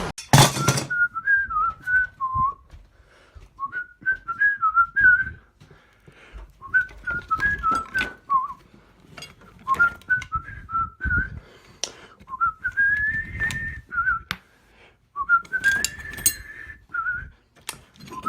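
A person whistling a tune in about six short phrases, some ending in rising glides, with scattered faint clicks and knocks between them. A loud noisy burst cuts off within the first second.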